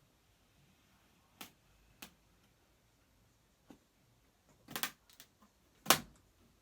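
Hand cutting of a model part, heard as separate sharp clicks: a few single clicks spaced out, then a quick cluster of them and, about six seconds in, the loudest click.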